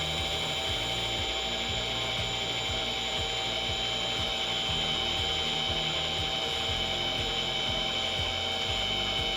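Metal lathe running while a knurling tool is pressed into the spinning aluminium rod to roll a knurled finish: a steady high whine with several held tones.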